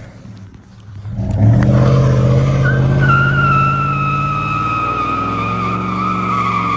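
Pickup truck engine held at high revs during a burnout, its rear tyres breaking into a long, loud squeal about two and a half seconds in that slowly falls in pitch.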